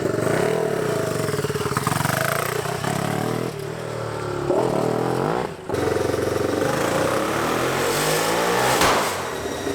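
Turbocharged single-cylinder Yamaha Raptor 660 engine in a lawn mower revving hard, its pitch rising and falling, with a brief cut-out about five and a half seconds in and a sharp crack near the end.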